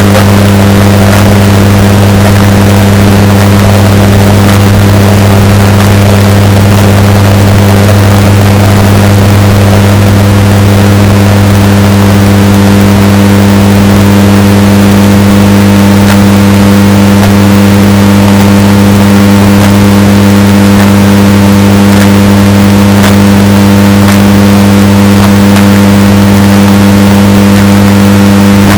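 Washing machine running with a steady, droning motor hum, heavily bass-boosted and distorted so that it is very loud and clipped. A faint higher tone joins the hum about ten seconds in.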